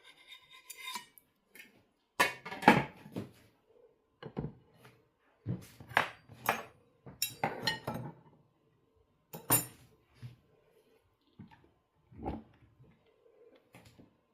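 Dishes and cutlery being handled: a series of clinks, knocks and clatters, the loudest cluster about two to three seconds in, then scattered knocks through the rest.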